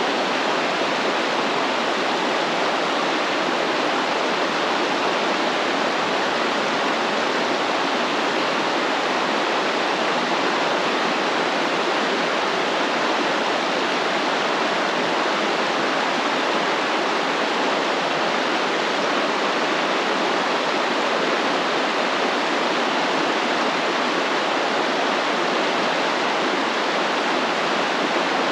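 Stream water flowing, a steady even rush of running water with no surges or pauses.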